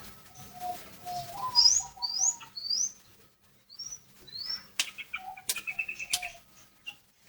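Sooty-headed bulbul (kutilang) calling: a run of short, quickly rising high whistles mixed with lower fluty notes, followed in the second half by a few sharp clicks and a quick patter of ticks.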